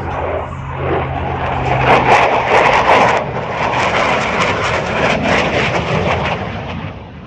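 F-16 fighter jet flying past: a loud jet roar that swells to its peak about two to three seconds in, crackling through the middle of the pass, and fading near the end.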